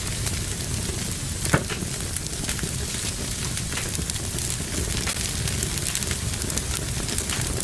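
Fire burning in a fireplace, crackling steadily, with one louder pop about a second and a half in.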